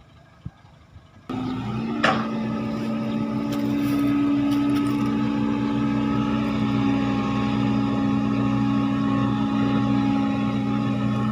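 Heavy machine's diesel engine running steadily at an even pitch, cutting in abruptly about a second in, with one sharp click shortly after.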